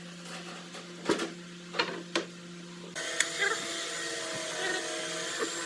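A few sharp knocks over a steady low hum, then, about three seconds in, a steady machine-like running noise starts suddenly and continues.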